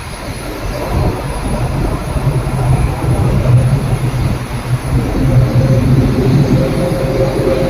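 Boeing 787-8 airliner's jet engines running at idle as it taxis into its parking stand: a steady low rumble that grows louder over the first few seconds, with a faint steady tone above it.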